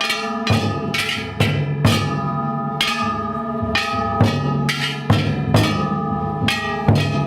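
A festival cart's large taiko drum and bronze kane gongs are struck together at about two beats a second. The gongs ring on between the strokes.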